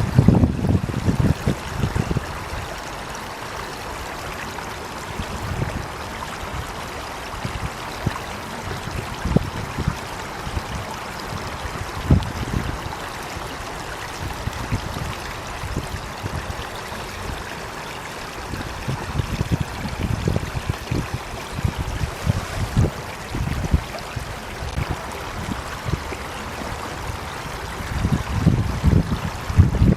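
Stream of running water, flowing steadily with irregular low surges of water, busier in the first couple of seconds and again in the last third.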